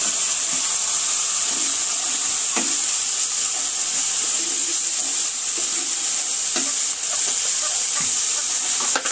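Spice paste frying in hot oil in a pan, sizzling steadily, while a spatula stirs it, knocking against the pan a few times.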